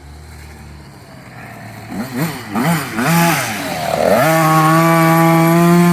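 Small motocross dirt bike engine revving: low and quiet at first, then a few quick throttle blips about two seconds in, then held at a steady high rev from about four seconds on.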